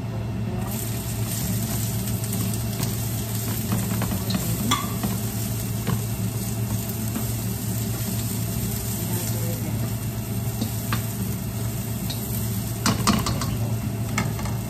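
Food sizzling in hot oil in a wok, the hiss starting about a second in as the pieces go into the pan, while a metal spatula scrapes and clicks against the wok in stir-frying, with a cluster of clatters near the end. A steady low hum runs underneath.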